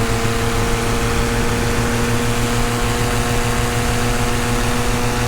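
Tandem paramotor's engine and propeller running at a steady cruise in flight: a constant, unchanging drone.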